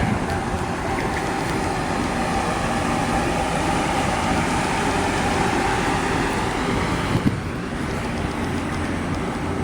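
Steady running noise of a vehicle under way: an engine drone under a rushing hiss, which changes abruptly about seven seconds in.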